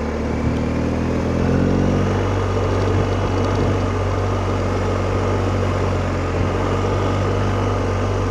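BMW R1250GS Rallye TE's boxer-twin engine running on the road. Its note falls over the first two seconds, then holds steady and low under a constant rush of road and wind noise.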